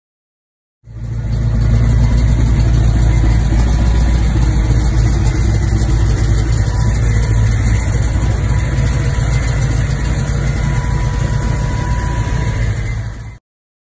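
A classic car's engine idling steadily with a deep, even exhaust note. It starts abruptly about a second in and cuts off abruptly near the end.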